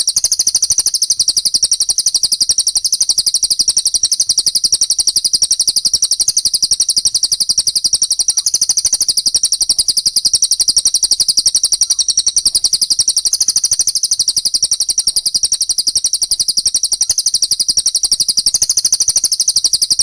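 Recorded bird-song training track of fighting Eurasian tree sparrow chirps layered with cililin song. It is a dense, unbroken run of rapid high-pitched chirps.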